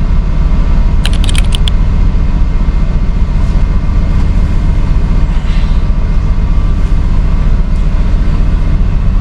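Semi truck's diesel engine running loud and steady, with a short run of sharp clicks about a second in.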